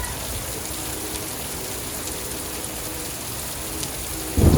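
Heavy rain falling steadily, with an even hiss. Just before the end, a sudden loud, low rumble of thunder begins.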